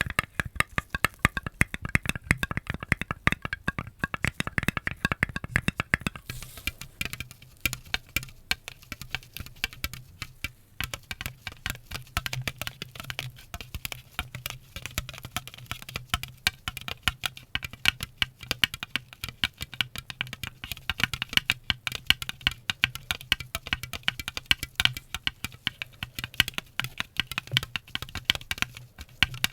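ASMR trigger sounds: dense, rapid clicking and tapping, changing to a different texture about six seconds in.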